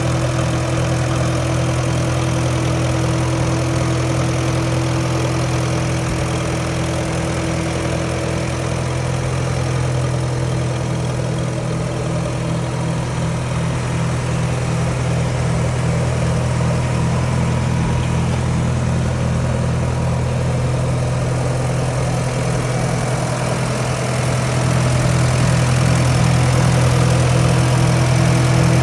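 Case 830 Comfort King tractor's four-cylinder gasoline engine idling steadily, getting a little louder near the end.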